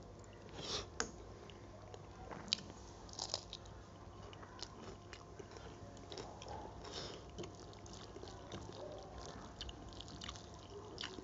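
Close-miked chewing and mouth sounds of a person eating rice and curry by hand: scattered small clicks and wet squishes, with a few louder ones in the first three or four seconds.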